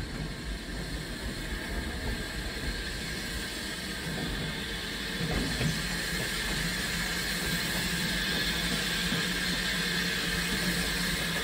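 A train running on the line, a steady rumble with a hissing edge that grows louder about halfway through as it comes closer.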